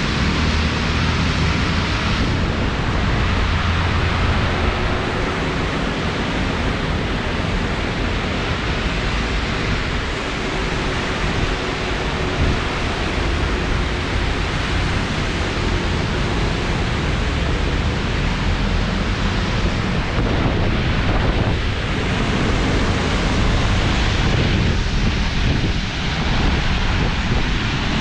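Heavy monsoon rain pouring steadily, a dense even hiss, with wind gusting and rumbling on the microphone.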